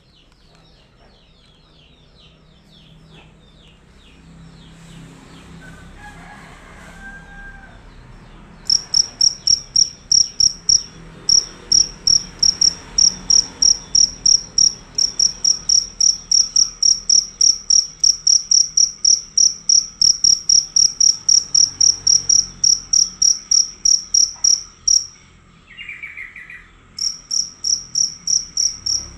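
A field cricket (jangkrik) calling loudly in rapid, even chirps, about three a second. It starts about nine seconds in, breaks off briefly a few seconds before the end, then resumes.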